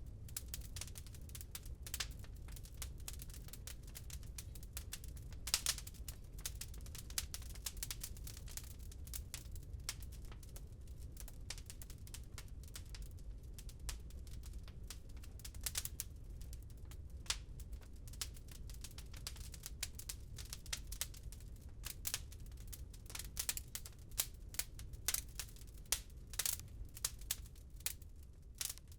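Wood fire crackling, with irregular sharp pops and snaps over a low steady rumble; the pops come thicker and louder in the last few seconds.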